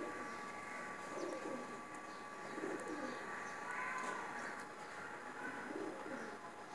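A bird calling: a few short, low calls a second or two apart, over a faint steady tone that stops about two-thirds of the way through.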